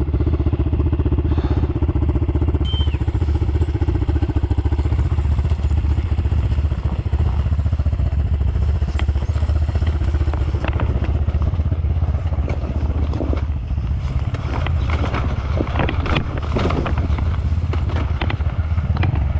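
Kovi 300 two-stroke enduro motorcycle engine running under way with a steady low drone. From about halfway through, many sharp knocks and clicks ride over it.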